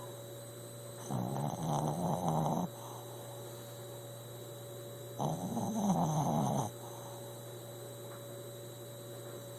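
A sleeping dog snoring: two long snores, each about a second and a half, about four seconds apart, over a steady low electrical hum.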